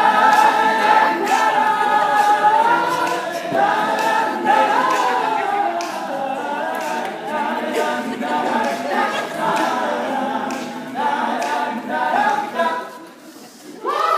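An a cappella group singing wordless sustained harmonies over rhythmic vocal percussion clicks, standing in for the instrumental part of the song. The sound dips briefly near the end before the voices come back in.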